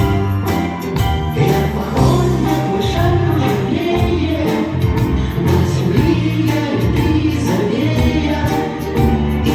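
A vocal-instrumental ensemble playing a pop song: several voices singing together over a band with bass and a steady beat.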